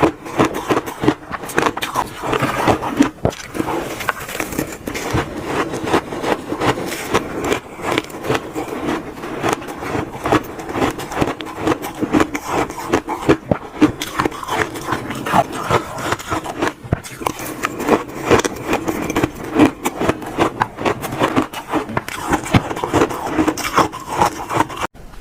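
Close-miked crunching of shaved ice being bitten and chewed: a dense, unbroken run of crackling crunches.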